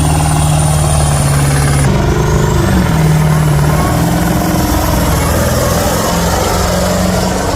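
Semi truck's diesel engine running hard under load, with a thin high whistle climbing in pitch. About two seconds in, the engine note drops and the whistle cuts off, then starts climbing again.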